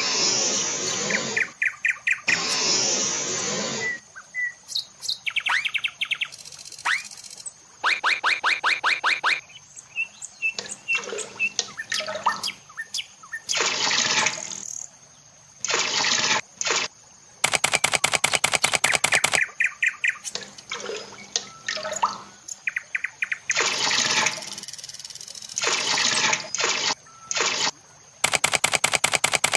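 Birds chirping and trilling in short bursts, mixed with the scratching of a miniature rake dragged through sand near the start and the splash of water poured from a small cup onto soil about halfway through.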